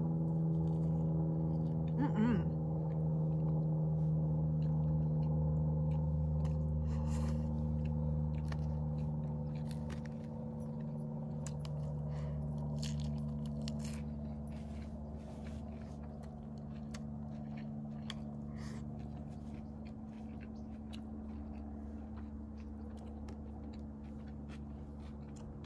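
Close-up chewing and biting of food with scattered small clicks of mouth and fork, over a steady low droning hum that slowly fades.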